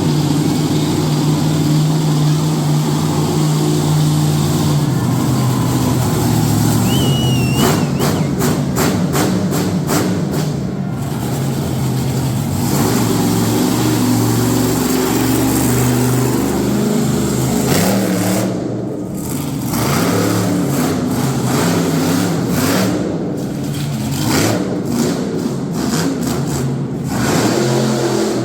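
A monster truck engine running hard and revving up and down, with music playing over it.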